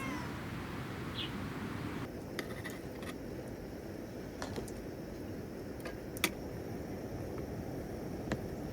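Scattered light clicks and clinks of utensils against dishes over a steady low background noise. A short cat meow comes right at the start.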